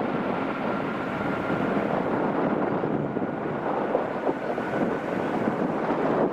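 Airbus A350 jet engines running at takeoff power: a steady roar with a faint high whine that rises slightly, mixed with wind buffeting the microphone.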